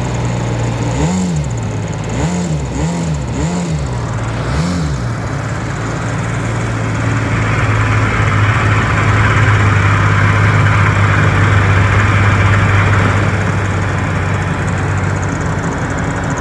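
An engine running, its speed rising and falling in several quick revs during the first five seconds, then running steadily while a rushing noise swells in the middle and eases off.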